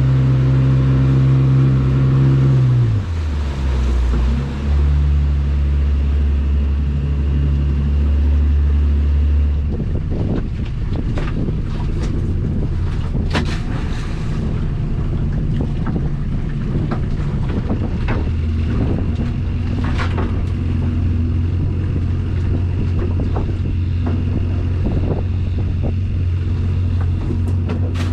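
A small fishing boat's outboard motor running under way. Its revs drop about three seconds in, then hold steady. From about ten seconds on, irregular knocks and splashes join it.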